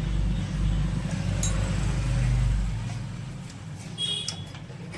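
A motor vehicle engine running with a steady low rumble, which fades after about three seconds.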